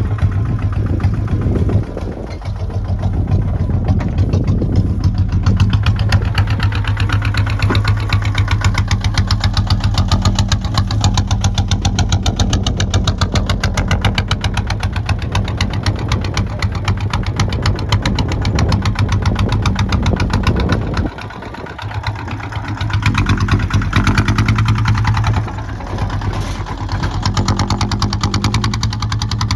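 Kubota ZT 155 tractor's single-cylinder diesel engine running with a rapid, even chugging, its level dropping briefly about two seconds in and again near twenty-one seconds.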